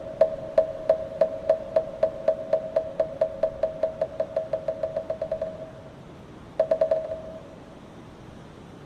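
Moktak, the Korean Buddhist wooden fish, struck with a mallet: pitched, hollow knocks in a run that speeds up from about two to about six strokes a second, then stops. After a short pause comes a quick flurry of four or five strokes, then only faint background noise.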